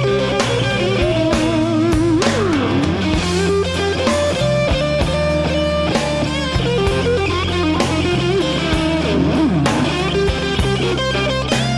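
Electric blues band playing an instrumental passage: a lead electric guitar plays a solo with bent, gliding notes over bass guitar and drums.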